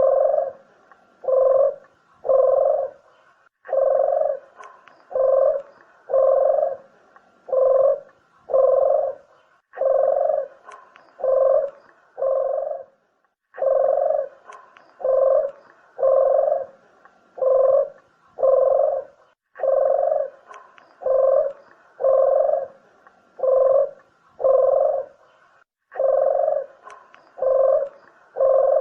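Puter (Barbary dove) cooing: a low coo repeated about once a second, in runs of five or six notes separated by brief pauses.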